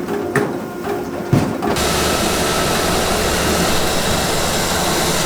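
Firewood-factory machinery: a few knocks and a short hum, then about two seconds in a loud, steady machine rushing noise with a low hum starts abruptly.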